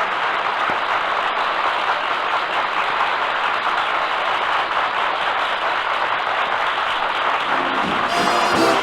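Studio audience applauding steadily after a song. Near the end a brass-led orchestra strikes up over the clapping.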